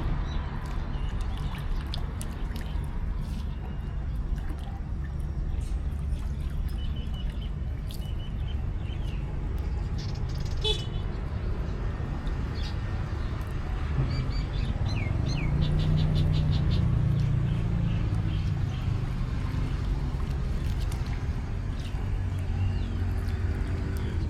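Outdoor town ambience: a steady low traffic rumble, with one vehicle's engine swelling louder about two-thirds of the way through, and scattered short bird chirps.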